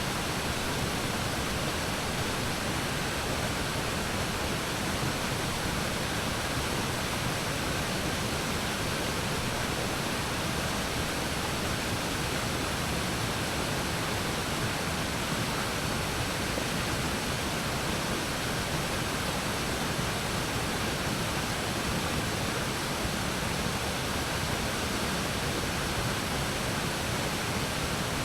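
Waterfall on a river: falling water rushing in a steady, even roar with no changes.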